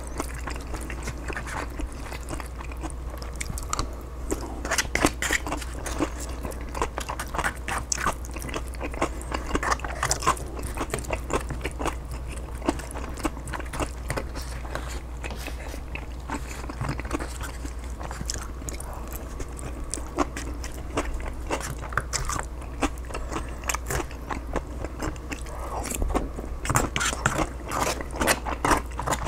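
Close-miked chewing and biting of a chicken burrito bowl: wet, irregular mouth clicks and crunches as the food is eaten forkful by forkful, over a steady low hum.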